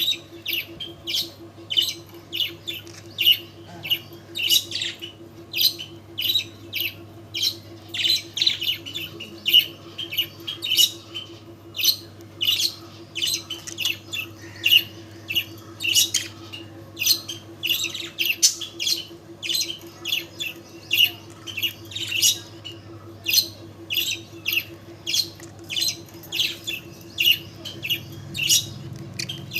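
Pet bird chirping and squawking, short sharp calls about two or three a second, over a steady low hum.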